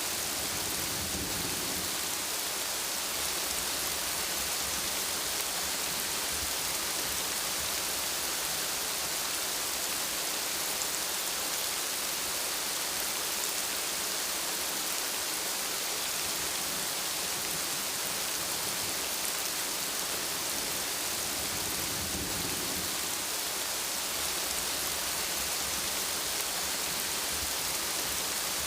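Steady rain falling in a constant hiss, with low rumbles of thunder shortly after the start and again about two-thirds of the way through.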